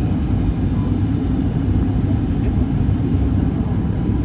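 Airliner cabin noise during landing: a steady, loud, low rumble of the jet engines and airflow heard from inside the passenger cabin.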